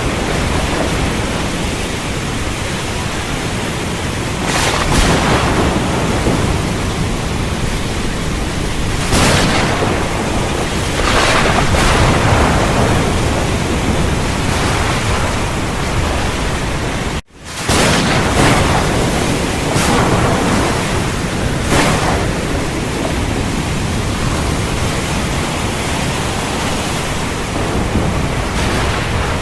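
Heavy rain falling steadily, with thunder swelling up several times. About two-thirds of the way through, the sound cuts out for a split second and comes back.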